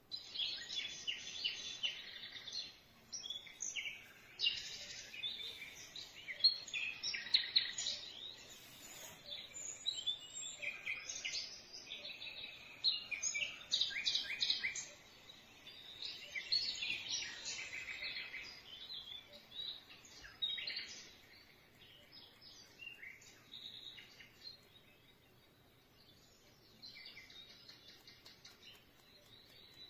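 Birdsong nature-sound track from a Dreamegg Pocket Sleep 1 mini sleep-sound machine: many high chirps and twitters, switching on abruptly and thinning out toward the end.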